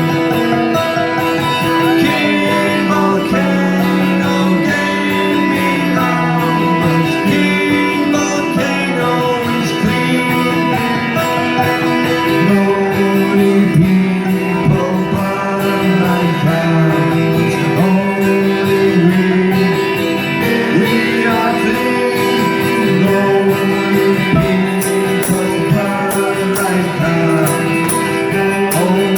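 Live rock band playing a song, guitars to the fore with singing over them.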